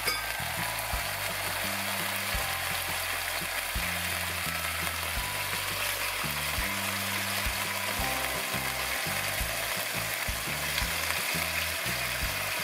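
Marinated liver slices frying in hot oil in a nonstick frying pan, with a steady sizzle as more pieces are laid in.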